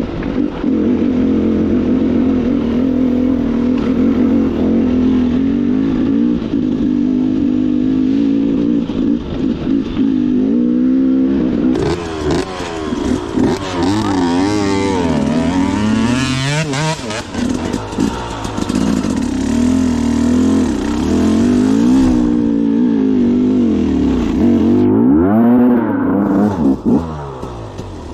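Two-stroke KTM dirt bike engine running under load off-road. It holds fairly steady revs for about the first ten seconds, then revs up and down again and again as the throttle is worked.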